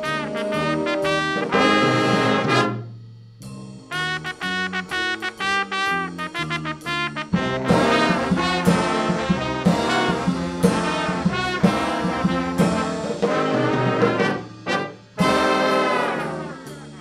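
Brass band music: trumpets and trombones playing a lively tune in quick, separate notes. The playing stops briefly about three seconds in and again near the end.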